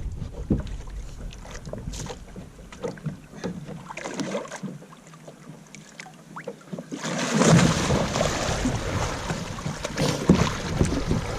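Scattered light knocks on the plastic hull of a Crescent LT fishing kayak, then about seven seconds in a sudden loud rush of splashing water as the kayak capsizes and the paddler goes into the water.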